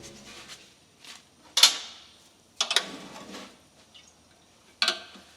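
Metal tools clinking and knocking against a leaking tubing fitting as it is worked on by hand, with a few sharp clinks spread over the seconds and light handling noise between them.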